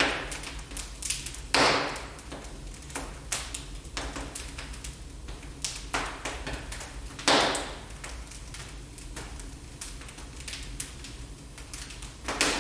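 Wood fire in a fireplace crackling: irregular sharp pops and snaps, with louder ones right at the start, about a second and a half in and just past seven seconds in, over a faint steady low hum.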